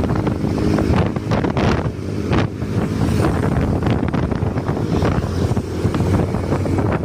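Wind buffeting the microphone over a vehicle engine running steadily underneath, as when travelling with the microphone in the open air.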